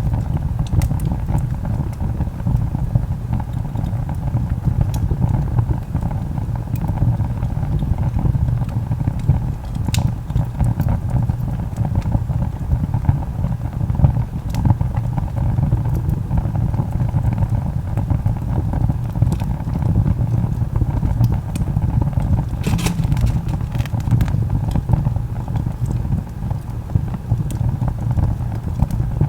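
Wood fire burning with a steady low roar and scattered sharp crackles and pops from the burning log, with a quick run of pops about 23 seconds in.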